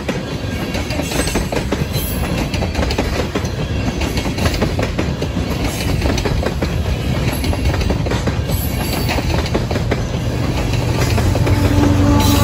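Freight train tank cars rolling past close by, steel wheels clicking over rail joints over a steady rumble. Near the end the diesel engine of a GE ES44C4 locomotive comes up as a steady low hum.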